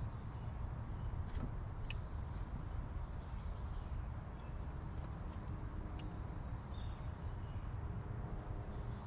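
Steady low outdoor background rumble with a few faint, high bird chirps, one gliding downward about halfway through, and a couple of light clicks.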